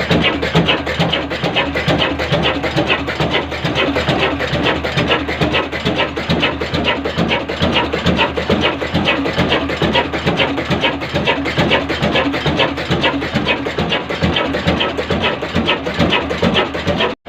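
Kala single-cylinder slow-speed oil engine running, with an even clattering knock several times a second. The sound cuts out briefly just before the end.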